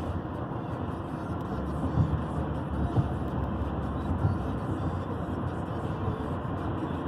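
Car driving: steady road and tyre rumble, with a few short low thumps from bumps in the road.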